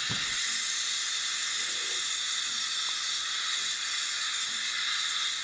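Steady steam hiss from a model locomotive's sound decoder (Zimo MX648 with YouChoos steam sounds) in a stationary OO-gauge Bachmann 3F Jinty tank engine, played through the loco's small speaker as one of its random standstill sounds.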